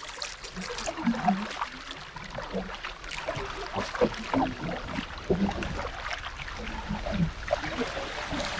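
Paddling a Swift Prospector 14 pack boat: the paddle dipping and pulling through the water, with uneven small splashes, trickling drips and light knocks.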